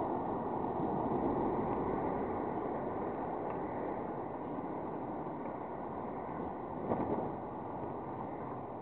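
Long Island Rail Road M7 electric commuter train running past and slowly fading as it moves away, a steady noise mixed with wind on the microphone.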